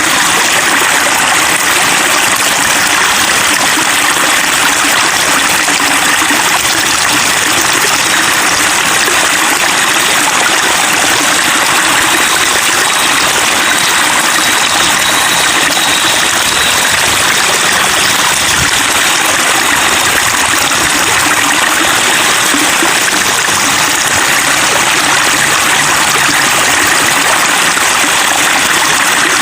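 Running water babbling and splashing steadily in a continuous, even rush, like a small stream or cascade.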